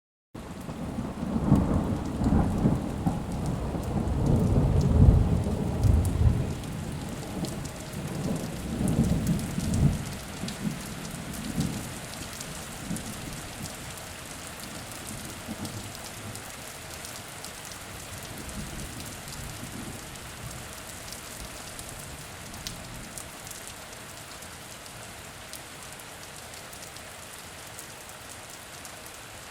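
Steady rain falling, with a long rolling rumble of thunder that swells twice in the first ten seconds or so and then fades away, leaving only the hiss of the rain. The sound starts suddenly from silence just after the beginning.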